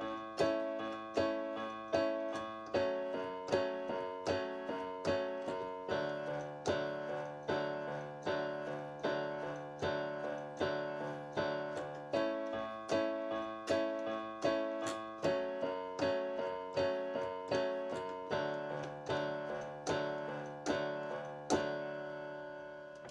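Solo piano playing a slow, steady pattern of chords, a little over one a second, each one ringing and fading before the next. Near the end the last chord is left to ring out.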